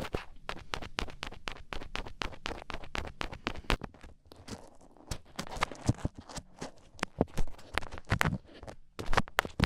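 Close-up ASMR sound of a daruma being scratched and tapped against the microphone: a dense, irregular run of crisp scratchy clicks, several a second, with brief lulls about four seconds in and again near the end.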